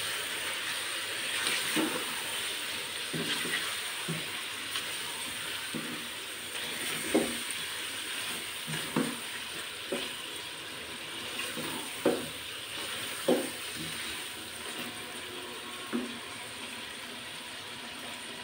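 Chicken pieces with tomatoes and spice masala sizzling as they fry in oil in a kadai. A silicone spatula stirs through them, with a short scrape or knock against the pan every second or two.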